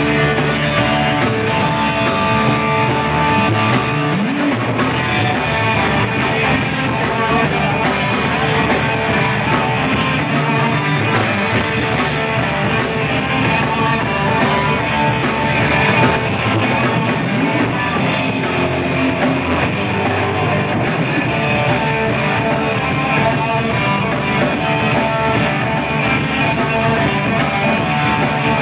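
Blues-rock band playing an instrumental passage, with guitar over a steady drum beat and no vocals.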